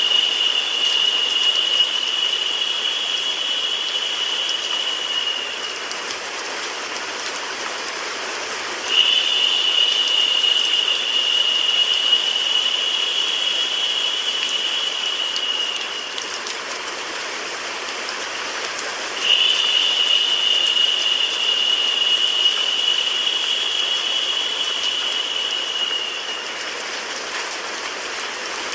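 Recorded rain sound mixed with white noise, a steady hiss. A brighter, higher hiss comes in for about seven seconds and drops out for about three, three times over, repeating at an even pace like a looped track.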